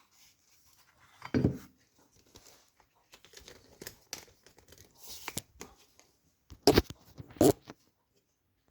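Hands handling small parts: irregular rustling and light clicks, a dull knock about a second and a half in, and two loud sharp knocks close together near the end.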